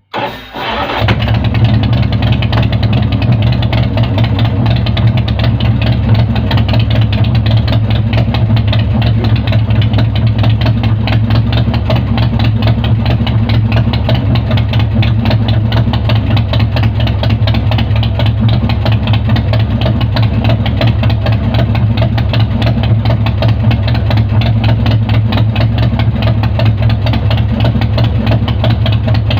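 BigDog motorcycle's V-twin engine firing up from cold with the enricher on, catching within the first second and settling into a loud, steady, rapid-firing fast idle.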